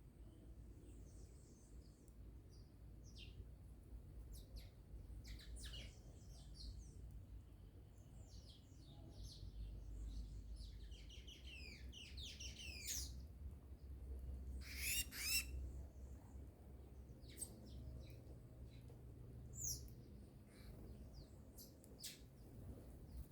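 Wild songbirds calling: scattered short chirps and calls, with a quick run of notes about halfway through and the loudest call a little later, over a faint low rumble.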